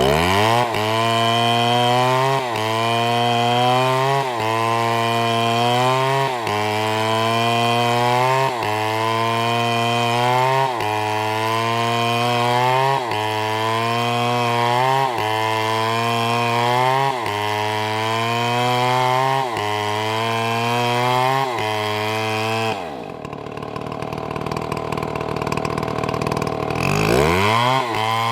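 Chainsaw revved up and cutting wood, its pitch dipping and recovering about every two seconds as the chain loads in the cut. About 23 seconds in it drops back to a lower, quieter running. Near the end it revs up again.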